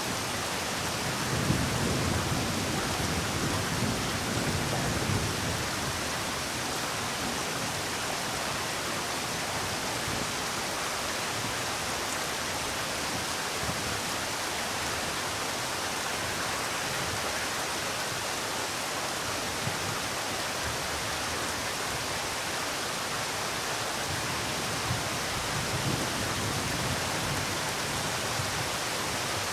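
Steady rain falling, an even hiss throughout. A low rumble swells about two seconds in and again near the end.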